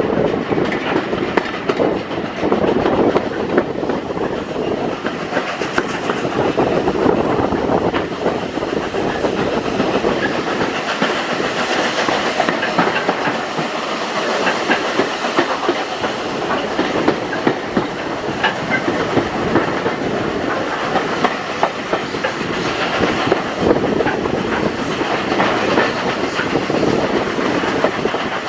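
British Railways Mk1 coach on the move, heard from aboard: a steady rumble of wheels on track, with many short sharp clicks and the clickety-clack of rail joints.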